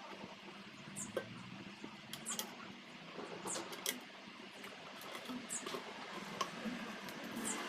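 Table fan parts being handled and fitted together by hand: scattered light clicks, knocks and short high-pitched scrapes.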